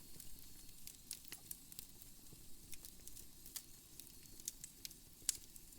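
Wood fire crackling in a fireplace: faint, scattered small pops over a low hiss, with one sharper pop about five seconds in.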